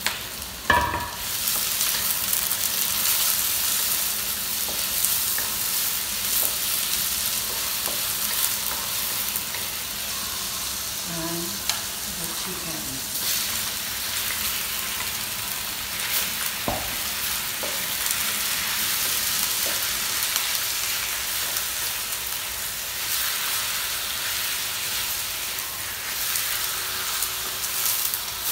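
Red onion, bell pepper and chicken pieces sizzling in hot oil in a steel wok, stirred with a wooden spatula; the sizzle gets louder about halfway through as more food goes in. A sharp knock about a second in.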